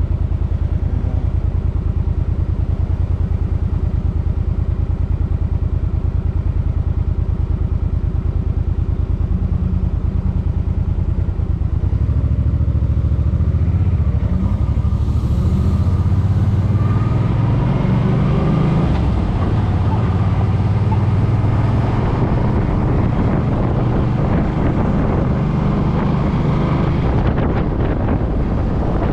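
Suzuki Boulevard M50's V-twin engine running while being ridden: a steady low engine note at first, then, from about twelve seconds in, the rider accelerates and the pitch climbs in steps through the gears while wind noise builds.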